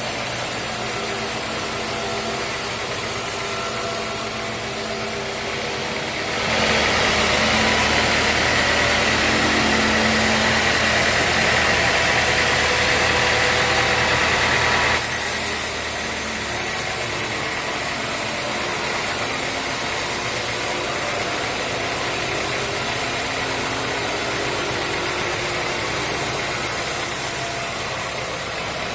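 Sawmill band saw running steadily. From about six seconds in it gets louder and hissier for roughly eight seconds as the blade cuts through the teak log, then drops back to running.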